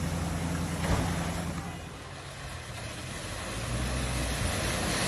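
A vehicle engine running with a steady low hum, a knock just before one second in; the hum dips about two seconds in, then a broad rushing noise builds up.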